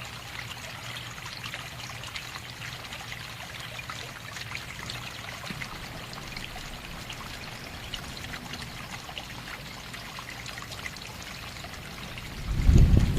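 Water trickling steadily, with fine crackling detail. Near the end, a loud low rumble comes in over it.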